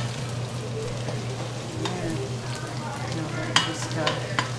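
Chopped onion and garlic sizzling as they sauté in a stainless steel stockpot, stirred with a metal spoon that clinks sharply against the pot a few times near the end, over a steady low hum.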